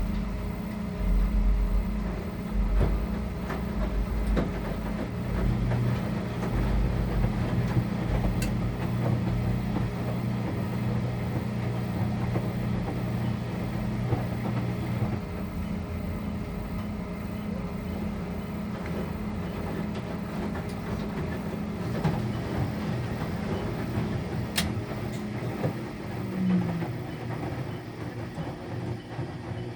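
Electrolux Wascator W355H washing machine running in its rinse stage: a steady motor hum with an uneven low rumble over the first several seconds, then a steadier hum with a few light clicks.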